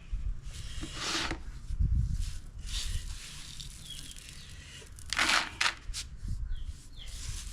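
Dried maize grain being shaken to mix in pesticide dust against weevils: rustling and shifting of the grain in several short bursts, with a few low thumps.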